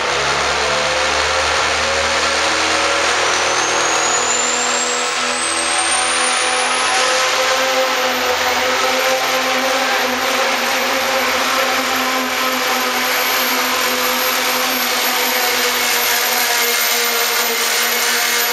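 Pro stock diesel pulling truck's engine running hard under full load through a pull, with a high turbo whistle that climbs over a few seconds and then holds steady.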